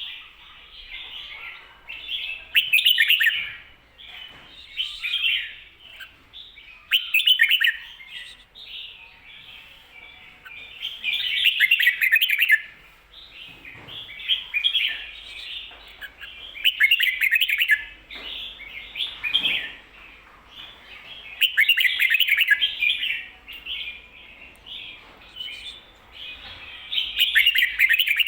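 Red-whiskered bulbul singing: short, loud warbled phrases repeated every second or two, with softer chattering notes between. This is the doubled 'ko-ta-ra' song type that is used to teach other bulbuls.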